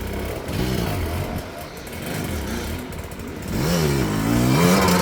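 Dirt bike engine revving up and down in short blips as the rider works the throttle, then climbing hard and louder about three and a half seconds in.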